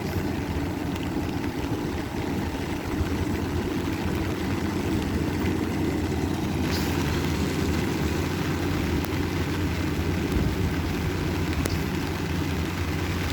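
Rice combine harvester engine running steadily, a constant low hum.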